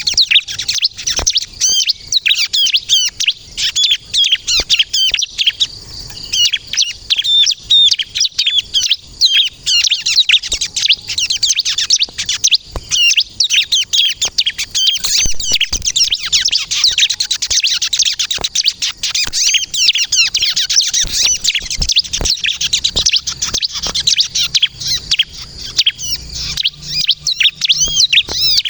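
Bar-winged prinia (ciblek) singing in full, continuous song: a fast, unbroken chatter of high, quick chirps and trills.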